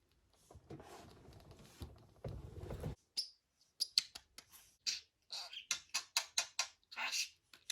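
A rough rustling noise for the first few seconds, then a pet budgerigar chattering in rapid, short, high chirps and clicks.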